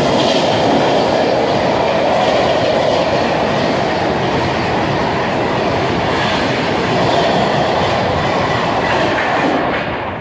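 Train running past close by: a steady loud rumble of wheels on the rails with a clickety-clack over the rail joints. It drops off near the end as the last coaches go by.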